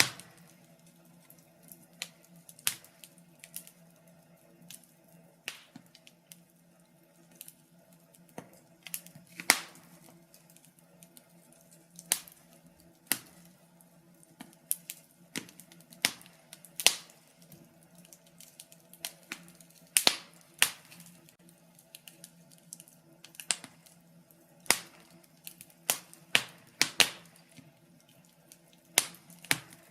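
Wood fire burning in a fireplace, crackling with irregular sharp pops and snaps, roughly one or two a second, some louder than others, over a faint steady hum.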